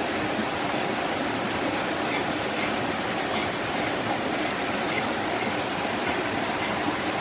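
Steady rushing, rumbling noise with faint light clicks recurring about twice a second.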